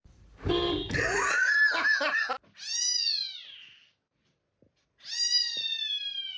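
A cat crying out: a rough, wavering cry in the first two seconds, then two long calls that each fall in pitch, with a short silence between them.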